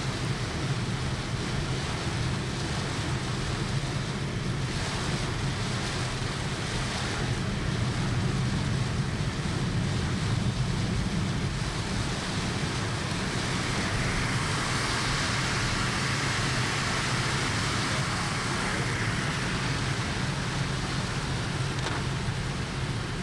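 Heavy typhoon rain on a moving car, heard from inside the cabin: a steady rush of rain and wet-road noise over a low road hum, swelling a little about two-thirds of the way through.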